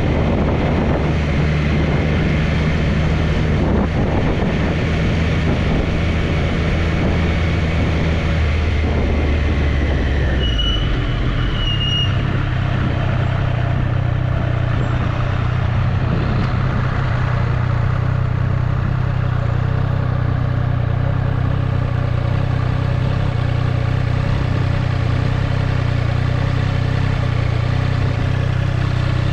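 Triumph Street Triple's inline three-cylinder engine running steadily under the rider, with road and wind noise. About ten seconds in, the engine note shifts with a brief falling whine and two short high beeps, then holds steady again.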